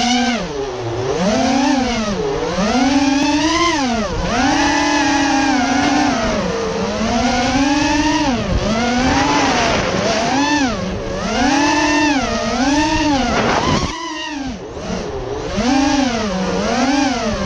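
Racing quadcopter's four brushless motors (RCX 2205 2250kv) whining as it flies, the pitch climbing and falling over and over with the throttle. The motors spool up sharply at the start, and wind noise rumbles underneath.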